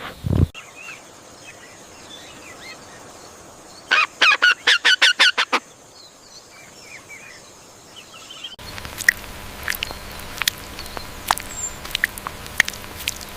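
Farm poultry calling: faint chirping, then a quick run of about ten loud honking calls lasting about a second and a half. These are followed by scattered sharp clicks over a steady background.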